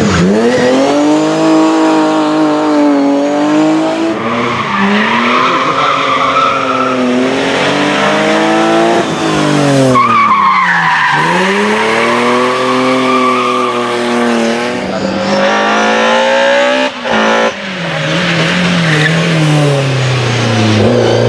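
Race car engine revved hard, its pitch climbing and dropping again and again as the car accelerates, brakes and shifts through the slalom, with tyres squealing in the corners.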